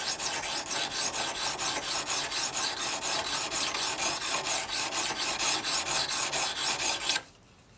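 A rusty antique chisel is rubbed back and forth on a whetstone, a rasping of steel on stone at about four strokes a second. The strokes are working the edges down past rust pitting. The rubbing stops abruptly about seven seconds in.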